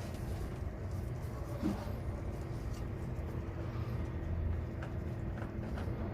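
A steady low mechanical hum with a faint steady tone above it and a few light clicks.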